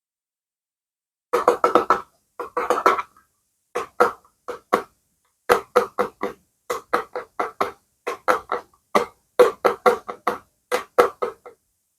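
Clusters of quick, sharp clicks and taps, several a second, in short runs separated by brief silences.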